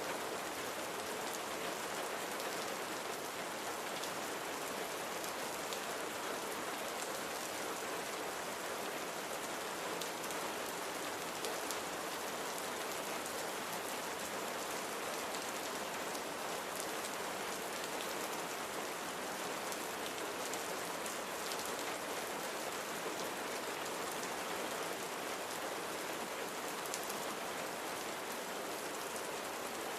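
Steady rain falling on a surface, an even patter with many fine drops ticking through it.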